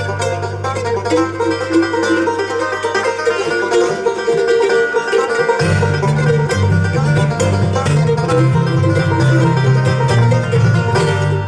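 Acoustic string band playing an instrumental break between sung verses: quick plucked notes over a bass line that shifts to a new pattern about halfway through.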